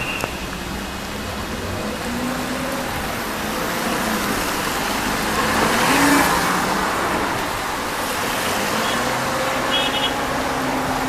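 Vehicle engines running under a steady rushing noise of typhoon wind and rain, with a louder swell about six seconds in.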